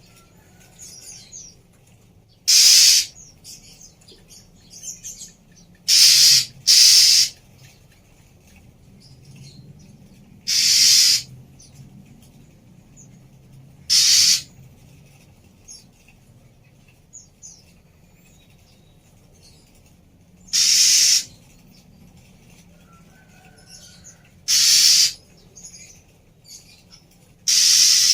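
Female Oriental magpie-robin (kacer betina) giving harsh, rasping calls, eight in all, spaced a few seconds apart. Two of the calls come close together, and faint chirps are heard between them.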